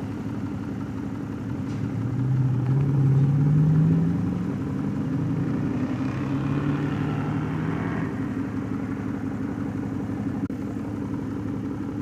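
A vehicle engine running steadily, swelling and rising in pitch about two seconds in, then rising again a few seconds later before settling back.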